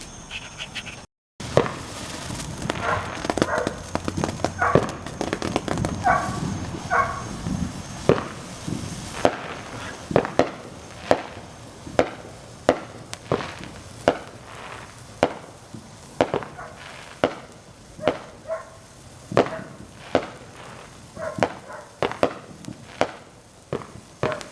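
Small backyard fireworks going off: a run of sharp cracks, about one a second through the second half, after a busier stretch of mixed popping.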